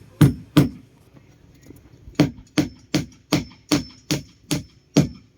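Hammer blows: three quick strikes, a pause, then a steady run of about nine strikes at roughly two and a half a second, as in hammering during boat repair work.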